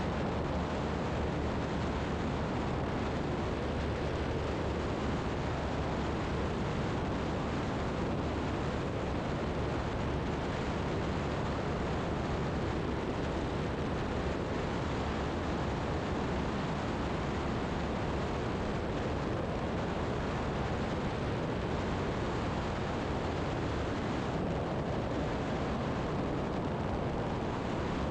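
Steady cabin noise of a Zenith STOL CH 750 Super Duty light aircraft in cruise: the engine and propeller run at a constant setting under a rush of air, with no change in pitch or power.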